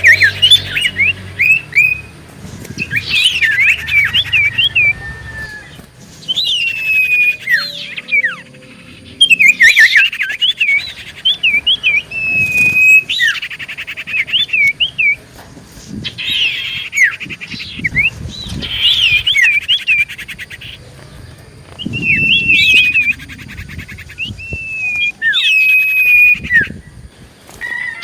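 Common iora singing energetically in repeated phrases. Each phrase is a one-to-three-second run of quick chirps, slurred whistles and buzzy trills, with short pauses between phrases.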